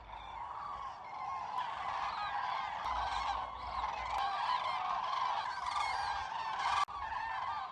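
A large flock of common cranes calling, many trumpeting calls overlapping without a break, with a brief drop near the end.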